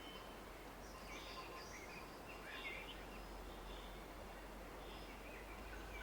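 Steady, faint rush of a distant river, with small woodland birds chirping and twittering in short high calls over it, most of them in the first half.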